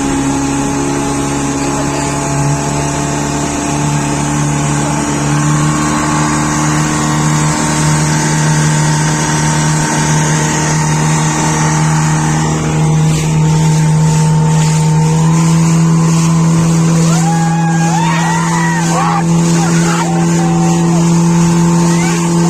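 Motorboat engine running steadily at an even, droning pitch, with brief voices faintly heard in the last few seconds.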